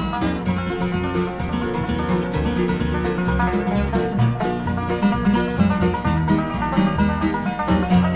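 A bluegrass band playing an instrumental break between verses, with banjo, guitars, mandolin and bass. Quick picked notes run over a steady bass line, with no singing.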